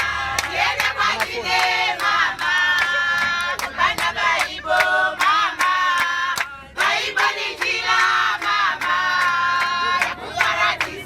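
A group of women singing together, with a steady beat of sharp claps or percussion strokes under the voices.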